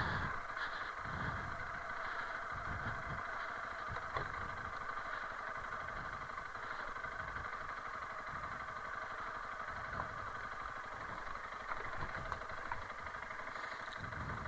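Honda CRF300L Rally's single-cylinder engine running steadily.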